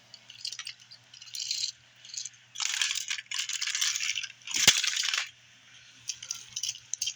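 Toy trains clattering and rattling against each other in several irregular bursts, the loudest a little before the middle, with scattered clicks near the end.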